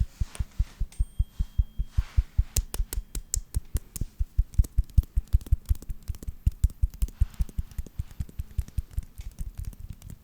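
Hands making fast, aggressive ASMR hand sounds close to the microphone: an even run of soft, muffled thumps, about six a second, with now and then a sharper click.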